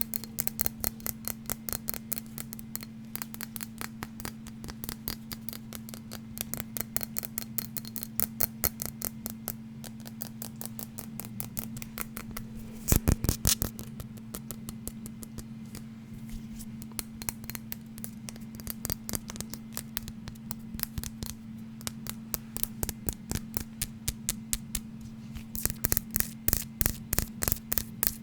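Fast, even tapping on a small hard object, about three to four taps a second, with a short louder flurry about halfway and heavier taps near the end, over a steady low electrical hum.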